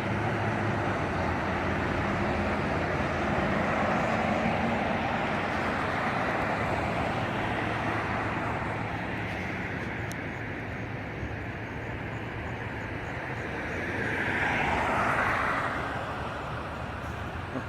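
Steady hum of road traffic, with one vehicle swelling louder and fading away about three-quarters of the way through.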